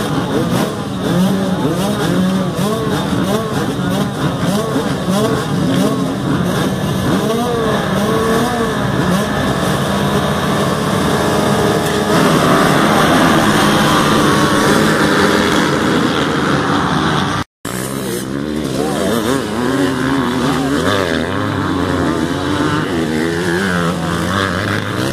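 Several motocross bikes' engines revving hard around the track, their pitch rising and falling with throttle and gear changes. They are loudest a little past the middle, as bikes pass close by. The sound drops out for a moment about two-thirds of the way through.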